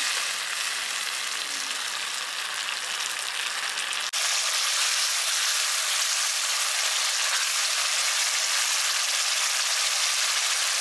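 Tomato-onion masala sizzling in hot oil in a nonstick kadai, turned with a slotted spatula, as the tomato cooks down and the oil starts to separate. A steady hiss, with a sudden break about four seconds in, after which the sizzle is a little louder.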